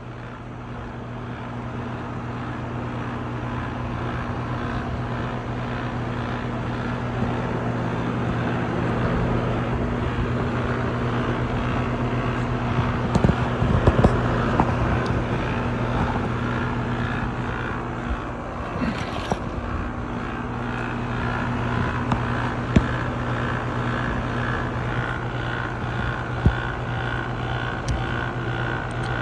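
Lennox heat pump outdoor unit running: a steady low electrical hum from the compressor under the even whoosh of the condenser fan, growing louder over the first several seconds.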